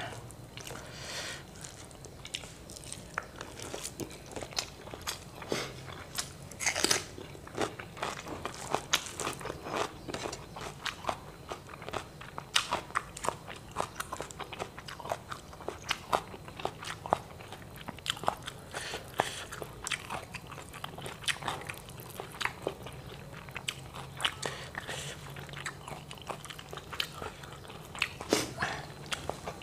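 Close-miked chewing of crisp fried tilapia with rice, with frequent irregular crunches and small clicks; a few crunches near 7 s and near the end stand out louder.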